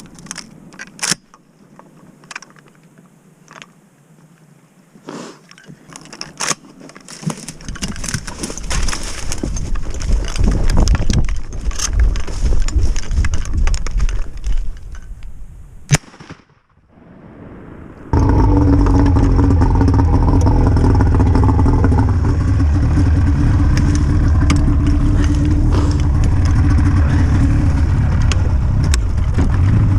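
A few sharp cracks over a rising wind-like rumble, then, after a sudden cut about two-thirds of the way in, a bass boat's outboard motor running steadily under way.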